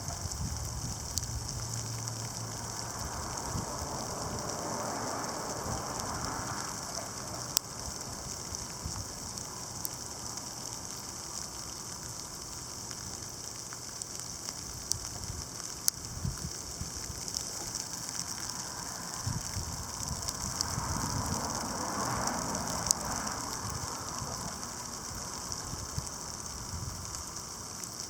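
Sleet mixed with snow falling: a steady hiss with scattered sharp ticks of ice pellets striking surfaces. Two broader swells of rushing noise rise and fade, one a few seconds in and one about two-thirds of the way through.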